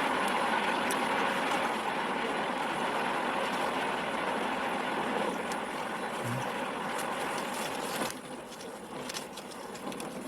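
Steady rushing noise of a moving vehicle on the road, easing off about eight seconds in.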